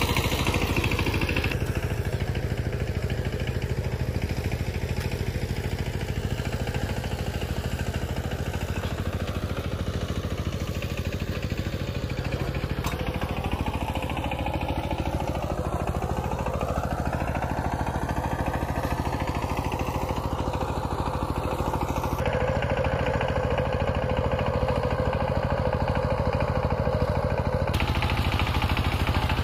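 A small engine running steadily, with an even low drone that does not let up.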